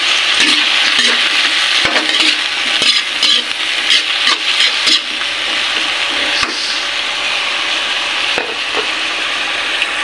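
Eggplant strips frying in oyster sauce in a metal wok, sizzling steadily while they are stirred, with scattered clicks and scrapes of the utensil against the pan.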